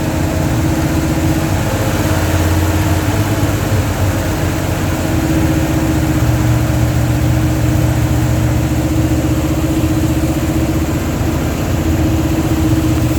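Dodge 360 LA V8 idling steadily, an engine its owner believes has a bad vacuum leak.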